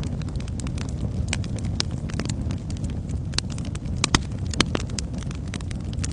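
Wood fire burning in a fireplace: a steady low roar of flames with irregular sharp crackles and pops, two louder pops about four and a half seconds in.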